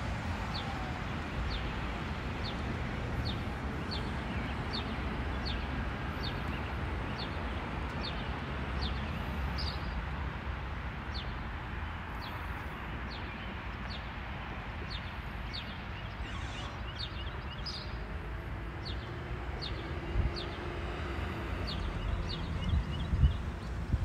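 A bird calling a short, high, falling chirp over and over, roughly every half second, over a steady low rumble.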